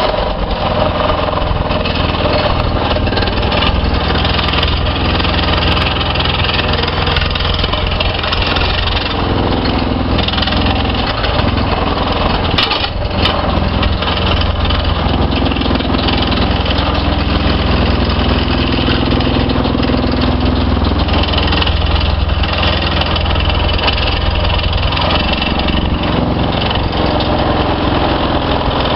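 NPK C4A hydraulic plate compactor running, its plate vibrating steadily against the ground with a deep continuous rumble over the drone of the carrier machine's diesel engine. A single sharp click about halfway through.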